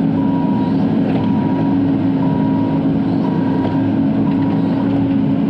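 Bobcat E42 mini excavator's diesel engine running steadily, heard from inside the cab, with a short alarm beep repeating about once a second.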